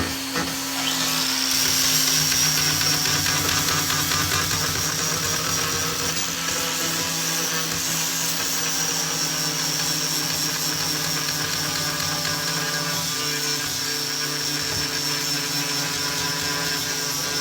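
A small, high-speed power-tool motor runs steadily with a high whine. It spins up over the first second or two, then holds a near-constant speed.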